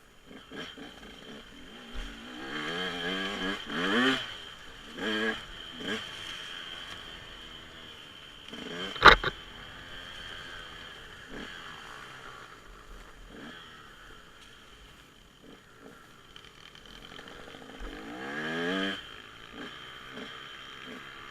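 Dirt bike engine revving up in rising bursts, several times a few seconds in and once more near the end, with a single sharp crack about nine seconds in.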